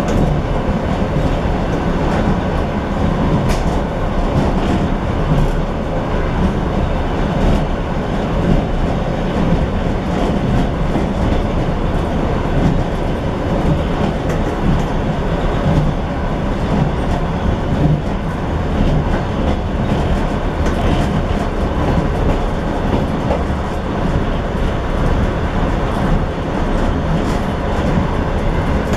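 Train rolling along the line, heard from inside its last carriage: a steady rumble of wheels on the rails with faint clicks over the rail joints.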